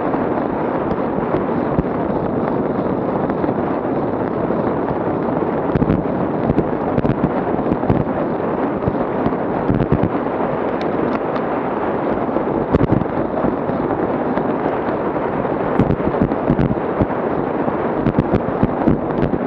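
Wind noise on an action camera's microphone while cycling: a steady rush with frequent crackles and pops.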